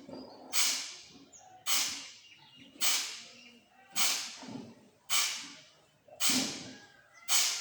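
Kapalabhati breathing: forceful exhalations pumped out through the nose, seven of them at about one a second. Each is a short hiss that starts sharply and fades away.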